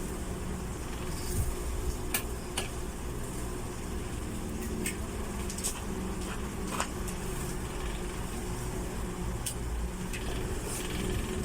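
Astron electric wall fan running with a steady motor hum, broken by sharp clicks at irregular intervals, roughly every one to two seconds: the fan has developed a clicking fault.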